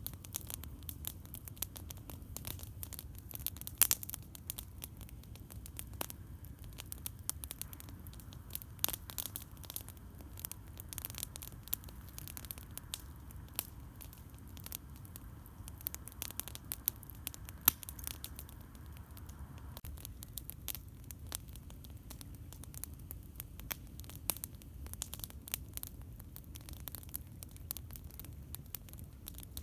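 Campfire crackling, with frequent irregular sharp pops, two louder ones about four seconds in and just past the middle, over a steady low rumble.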